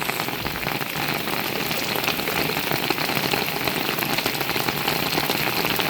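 Heavy rain pouring down: a steady hiss of rainfall with many small drop impacts on surfaces.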